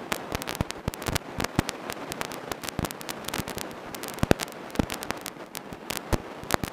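Dense, irregular crackling and popping static, many sharp clicks a second at uneven spacing, with a few louder pops such as one a little over four seconds in.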